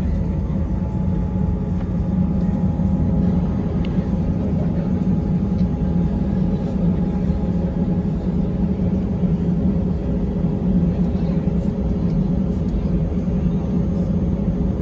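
Steady cabin drone inside an Airbus A320-200, the jet engines and cabin air running at an even, unchanging level with a low rumble and a faint steady hum above it.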